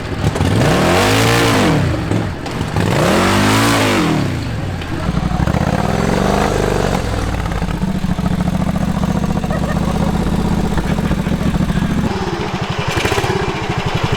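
Engine of a modified off-road lawn tractor (mud mower) revved up and back down twice, then held at a steady, pulsing run under load.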